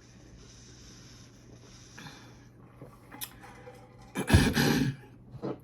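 Close-miked mouth and breath sounds of someone eating: a few faint small mouth noises, then one loud breathy burst lasting under a second about four seconds in, and a short one near the end.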